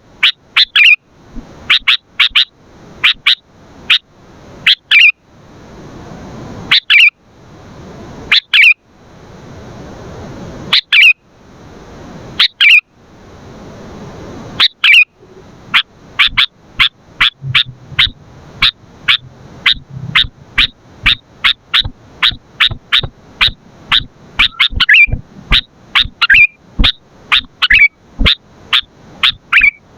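Sooty-headed bulbul (kutilang) calling: sharp chirps repeated over and over, in clusters about every two seconds at first and then a faster, almost continuous run after about halfway. A hiss swells between the clusters in the first half.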